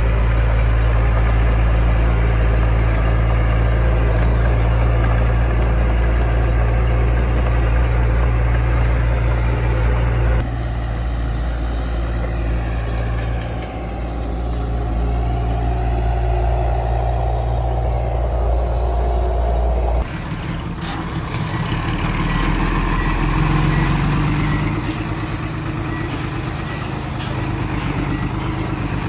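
Heavy diesel engine of earthmoving machinery running steadily at low speed. The sound changes abruptly twice, and the last part is rougher, with scattered clanks.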